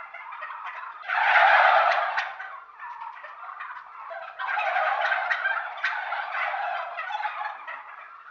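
Domestic turkeys gobbling. A loud rattling gobble comes about a second in, and another long bout of gobbling starts about halfway through, fading out near the end.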